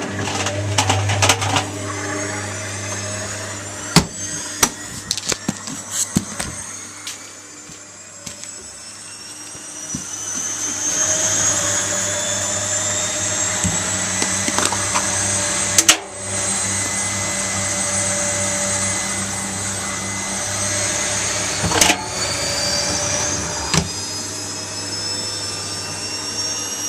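Zanussi washing machine's drum motor speeding up into a spin: a whine that rises steadily in pitch for about twelve seconds and then holds high over a steady hum. Clicks and bumps sound now and then, with sharp knocks about four seconds in and again near the middle and toward the end.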